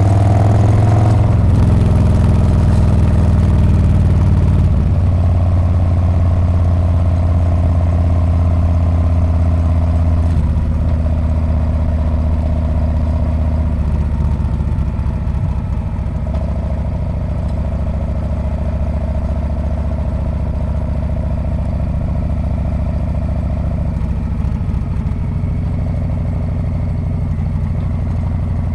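Harley-Davidson Street Bob's V-twin exhaust while riding, its note shifting a few times as the throttle and gears change; a little quieter in the second half.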